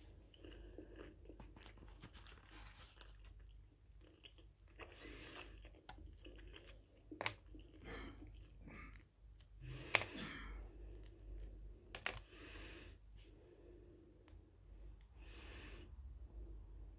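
Close-miked chewing and wet mouth sounds of a person eating, with a few sharp clicks about 7, 10 and 12 seconds in.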